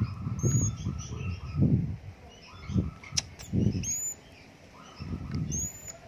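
Bird calls: three brief high whistles that fall in pitch, a few seconds apart, and short runs of rapid chirping, over louder irregular low thumps and rustling. A single sharp click just after the middle.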